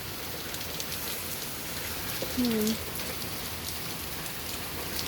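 Heavy downpour: rain falling steadily, an even hiss of water.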